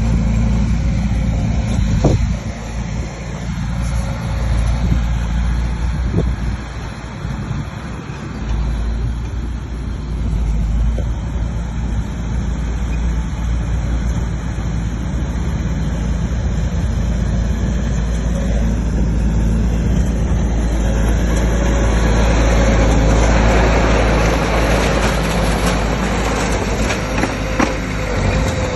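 Heavy diesel earthmoving machine running steadily, growing louder and harsher about two-thirds of the way through.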